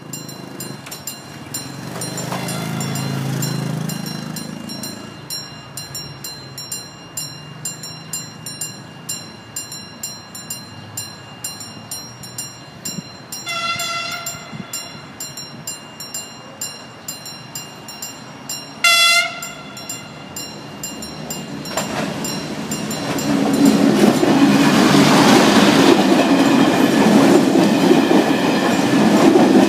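A passenger multiple-unit train sounds two short horn blasts as it approaches, the second louder. It then runs past close by with a loud, rising rumble and wheel clatter.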